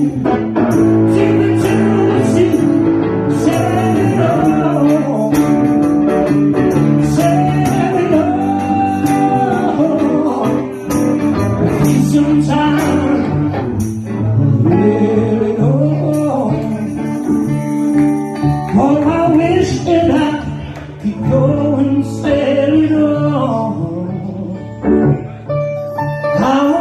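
Live blues-rock band playing: electric lead guitar with bending notes over bass guitar and rhythm guitar.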